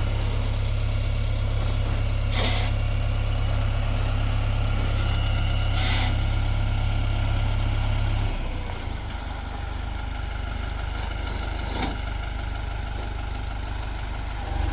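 Tractor engine running steadily, then easing to a lower, quieter speed about eight seconds in, with a few short knocks over it.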